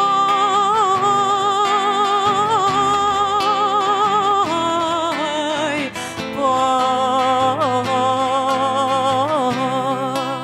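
Female voice singing long, held wordless notes with strong vibrato over acoustic guitar accompaniment. The phrase breaks off briefly about six seconds in and resumes with further held notes.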